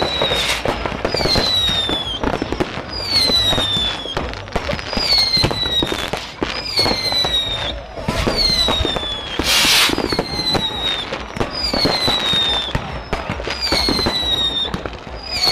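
Fireworks going off: a whistle falling in pitch repeats about every two seconds, over a constant clatter of bangs and crackles. A short hissing burst comes near the middle.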